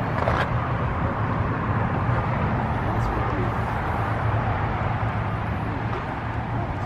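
Outdoor background of indistinct voices over a steady low hum, typical of a car running nearby.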